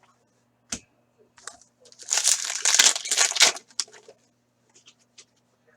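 Trading-card pack packaging crinkling as it is handled, a dense crackle lasting about a second and a half near the middle, after a single light click about a second in. A faint steady electrical hum runs underneath.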